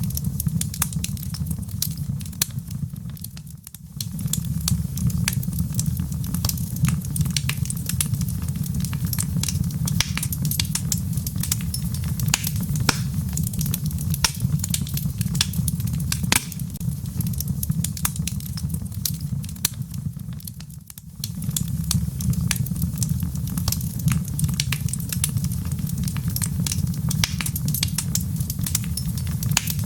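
Wood fire in a fireplace crackling, with a steady low rumble of the flames under constant sharp pops and snaps. The rumble briefly dies down twice, about four seconds in and again about twenty seconds in.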